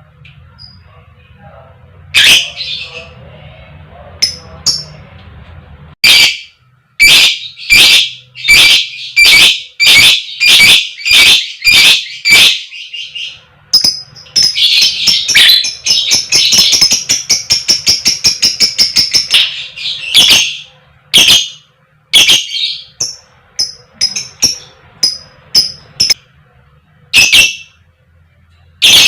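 Lovebird calling: a run of about a dozen loud, sharp, evenly spaced 'koek koek' calls, then several seconds of fast continuous chattering, then scattered single calls near the end.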